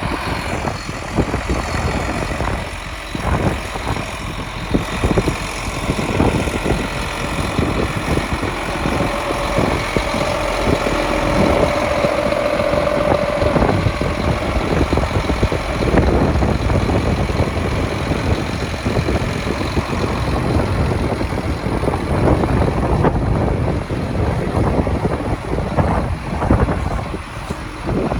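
New Holland T9040 four-wheel-drive tractor's diesel engine running, uneven with many short irregular bumps in the sound, and a brief steady whine about halfway through.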